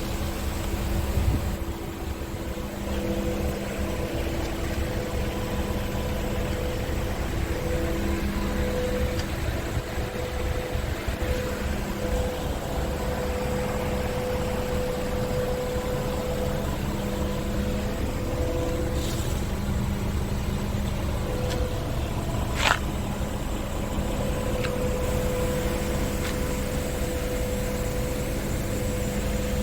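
Scania R650 truck's 16-litre V8 diesel engine running steadily, a low rumble with a steady hum over it. There is one sharp click a little past two-thirds of the way through.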